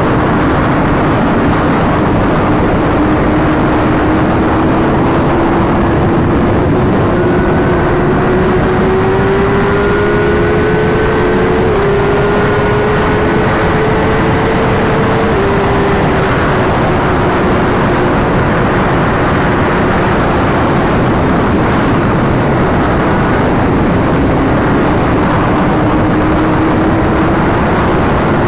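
Sportbike engine pulling under way, with heavy wind rushing over the microphone. The engine note climbs slowly, drops twice partway through as it shifts up, then rises again near the end.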